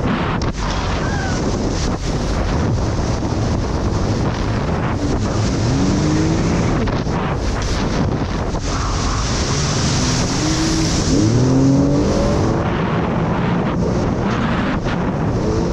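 Jet ski engine running under way, with heavy wind buffeting on the microphone and a rush of water. The engine's pitch climbs as the throttle opens, about five seconds in and again near the middle.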